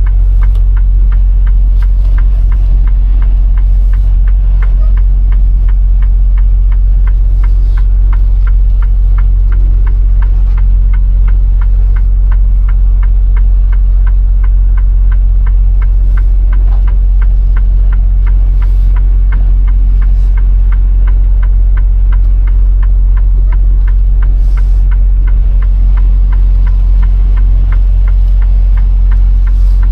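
Diesel engine of a semi truck running steadily, heard from inside the cab: a low drone with a fast, even ticking over it.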